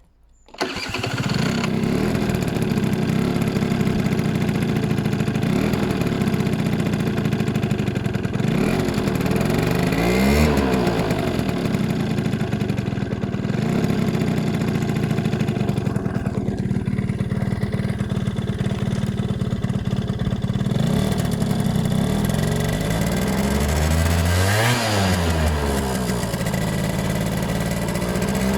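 Piaggio scooter engine with a Motoforce aftermarket exhaust starting up about half a second in, then running steadily, its pitch rising and falling a few times.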